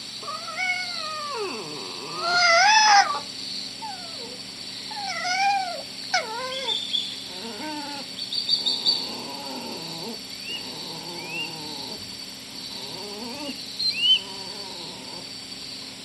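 An animal giving a series of mewing, cat-like calls that rise and fall in pitch. The loudest come about two to three seconds in, followed by fainter calls and a few short high chirps.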